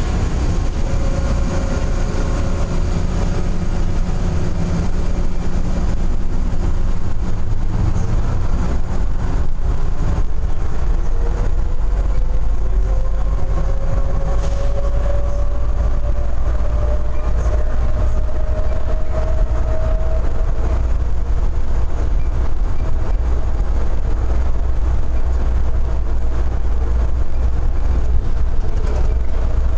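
Denver airport's underground automated people mover train running through its tunnel, heard from inside the car: a steady low rumble from its rubber tyres on the concrete guideway. A thin whine rises in pitch about a third of the way in and then holds steady as the train speeds up.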